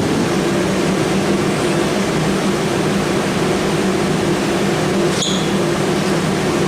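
Steady hum of a running motor over a rushing-air noise, with a short click about five seconds in.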